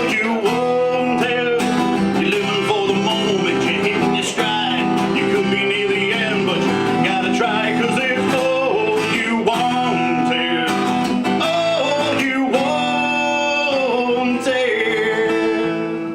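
Live rock band song: guitar strummed and picked under a singer's melody, steady and loud.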